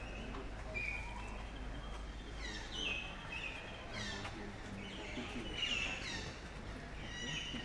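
Birds calling: clusters of short, high chirps that sweep downward in pitch, coming every second or two.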